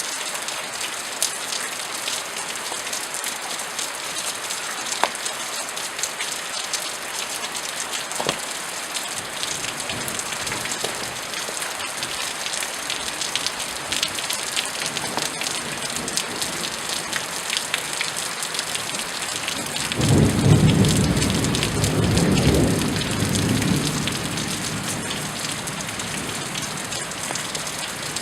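Steady rain falling on surfaces, with many small drips. A rumble of thunder builds about halfway through, is loudest a little after two-thirds of the way in, and rolls away near the end.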